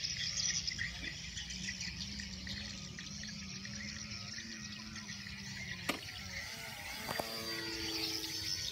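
Distant steady drone of the Extra 300S's engine, wavering slightly, over a hiss of insects; a sharp click about six seconds in and another soon after.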